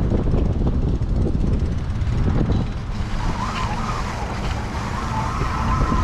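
Low rumbling noise, with a steady, slightly wavering whine that joins in about halfway through and cuts off sharply at the end.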